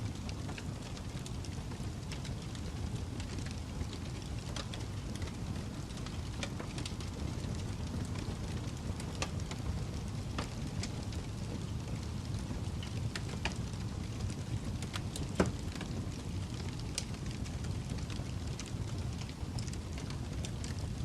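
Wood fire burning in a fireplace: a steady low rumble with scattered crackles and pops, one louder pop about fifteen seconds in.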